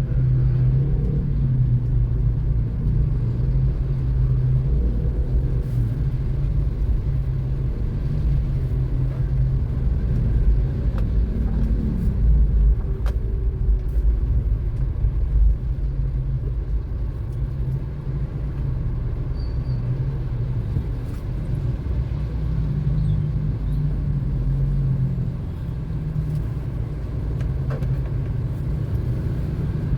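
Car driving on a city road: a steady low rumble of engine and road noise that swells a little and eases off now and then.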